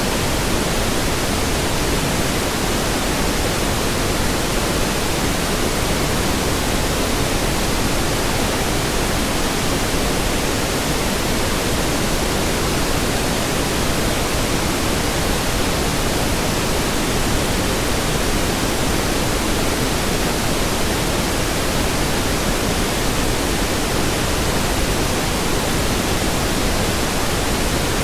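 Steady synthetic pink noise: an even hiss across the whole range, with no change in level.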